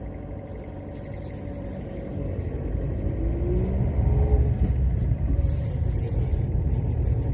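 Low rumble of a motor vehicle engine, growing louder about two and a half seconds in and holding steady.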